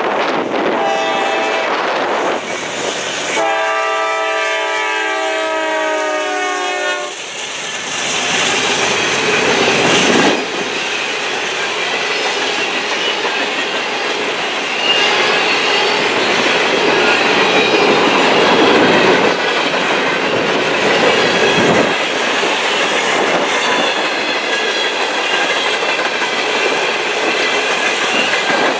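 Freight train air horn sounding a chord for about four seconds a few seconds in, then an empty coal train rolling past with steady wheel noise and clickety-clack over the rail joints.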